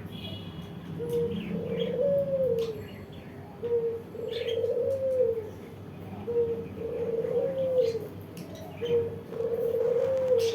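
A dove cooing in four repeated phrases, one about every two and a half seconds. Each phrase is a short low note followed by a longer one that rises and falls. Faint short chirps and clicks sound over it.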